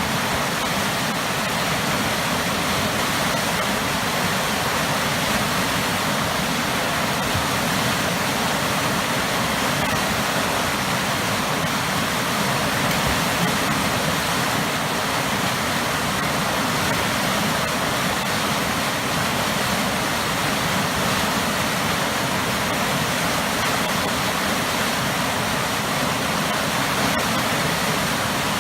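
Waterfall with powerful churning water, a steady, full rushing roar with no breaks.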